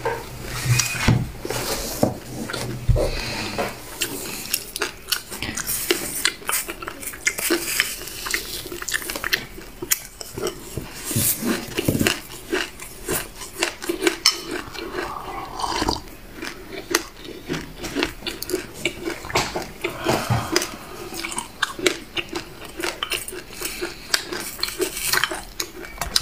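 Close-up chewing and biting of black sesame seeds and buckwheat: many small crackling clicks, with a wooden spoon now and then knocking against a glass bowl.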